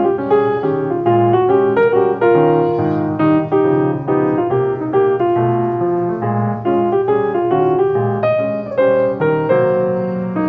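Background piano music, a gentle melody played over chords with a steady flow of notes.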